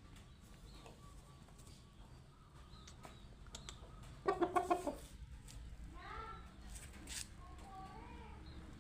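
Chickens clucking, with a loud quick run of about six clucks a little over four seconds in, followed by softer, bending calls.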